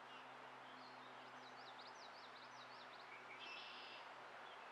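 A songbird singing: a quick run of sharp chirps, then a short buzzy trill, faint over steady outdoor background noise.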